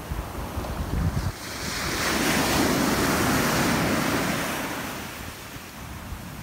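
Surf on an ocean beach: a wave breaks and washes up the sand, swelling about a second and a half in and fading away by about five seconds. Wind buffets the microphone with low rumbles at the start.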